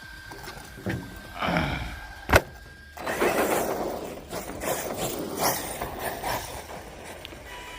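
Electric motor of a radio-controlled stunt truck whining up and down in pitch, a single sharp bang a little over two seconds in as the truck hits hard, then a few seconds of motor and tyre noise as it drives across concrete.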